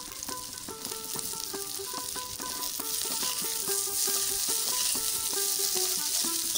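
Onion and green bell pepper sizzling in hot oil in a metal kadai, stirred and turned with a flat spatula; the sizzle grows louder about halfway through. A light melodic background tune plays along.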